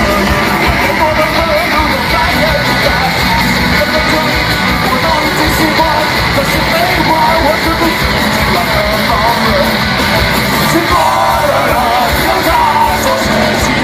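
A rock band playing loud and live, with a singer's voice over the full band.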